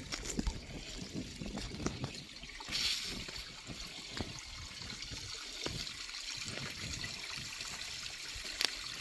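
Small waterfall running, a steady hiss of trickling and splashing water.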